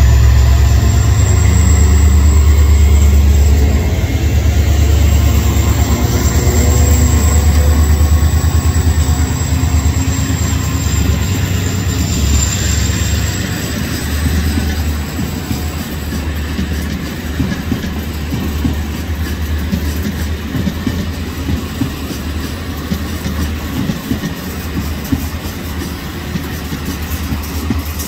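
Diesel locomotive hauling a passenger train runs loudly past at the start, then the passenger coaches roll by with a repeated clicking of wheels over the rail joints, fading as the train pulls away.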